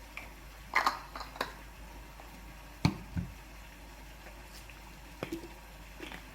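Kitchen prep handling sounds: a handful of short knocks and clicks, as of utensils and dishes being set down, the loudest two about a second and three seconds in.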